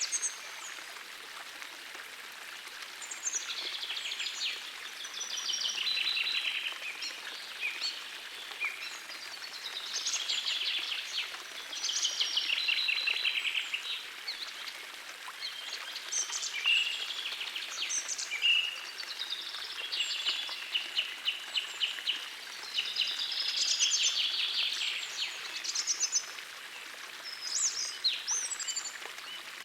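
Songbirds singing, phrases of quick high notes following one another every few seconds, over the steady rush of a small forest stream.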